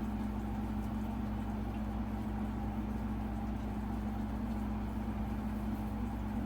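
Steady, even mechanical hum with a low droning tone and no clicks or changes.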